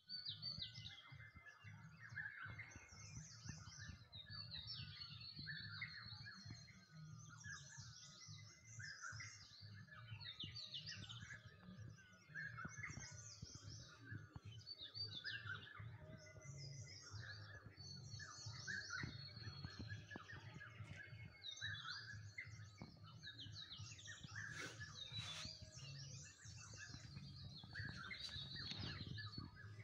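Faint chorus of several birds chirping and singing at once, short overlapping calls following one another throughout, over a low steady rumble.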